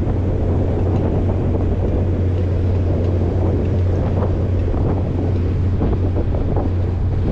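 A fishing boat's engine running steadily with a low, even hum, and wind buffeting the microphone.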